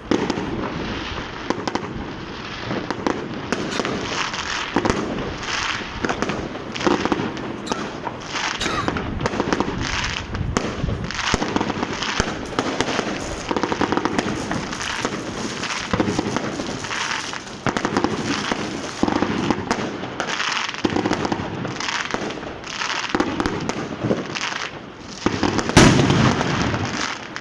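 Dense, continuous New Year's Eve street fireworks: rapid firecracker crackling and pops with overlapping bangs, and one loudest blast near the end.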